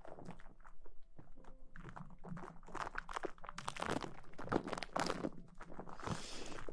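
Close-miked ASMR rustling: a quick, irregular run of soft crackles and crinkles right at the microphone.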